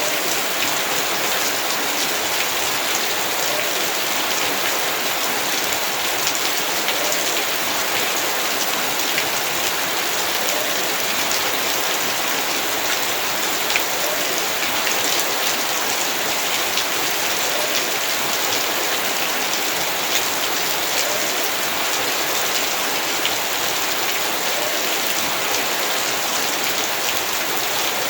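Heavy rain falling steadily, a dense even hiss thick with the patter of individual drops striking surfaces.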